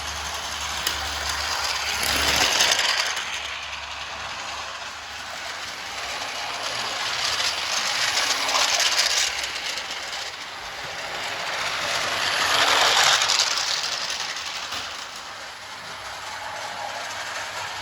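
Märklin My World battery-powered toy train running on its plastic track, its motor and wheels making a steady rattling whir. It grows louder three times, about every five seconds, as it comes round the loop past the microphone.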